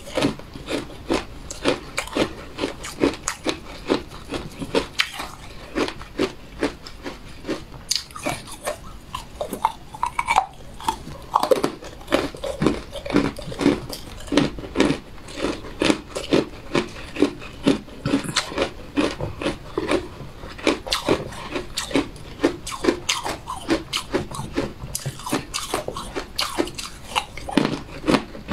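A person chewing cookies close to the microphone: a quick, steady run of crisp crunches, several a second.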